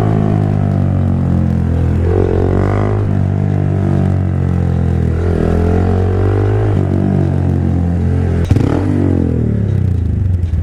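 Honda Grom's small single-cylinder engine running under way, its pitch dipping and climbing again a couple of times as the throttle changes. A sharp click about eight and a half seconds in.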